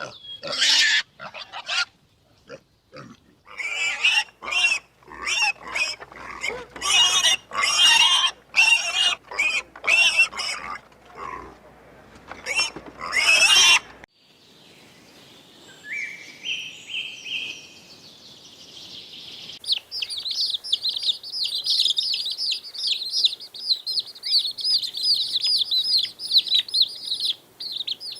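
Pigs squealing in harsh, repeated bursts for about the first half. After a sudden cut come a few high chirps, then a fast, steady, high-pitched pulsing trill from about two-thirds of the way in.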